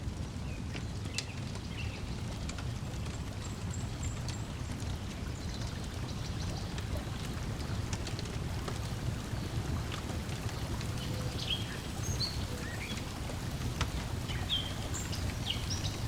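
Lakeside nature ambience: water lapping at the shore as a steady low noise, a wood fire crackling with scattered sharp pops, and short bird chirps now and then, more of them in the second half.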